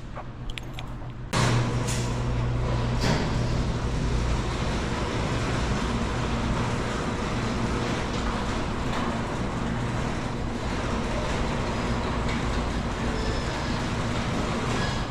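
Air-ride suspension of a custom 1961 Ford Thunderbird being let down: about a second in the air bags are dumped with a sudden loud hiss that runs on steadily as the car lowers to lay out. A steady low hum runs underneath.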